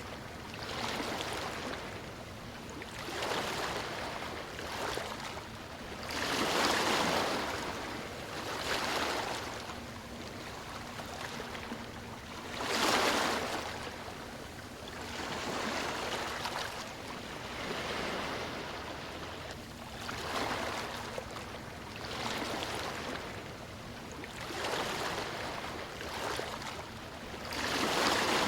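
Sea waves washing onto a beach, the surf swelling and falling back every two to three seconds, with louder breakers about a third of the way in, near the middle and at the very end.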